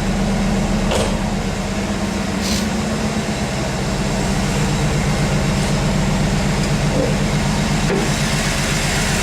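Chevrolet LT1 350 V8 of a 1993 Camaro Z28 idling steadily a couple of minutes after a cold start, with two short metallic clicks about one and two and a half seconds in.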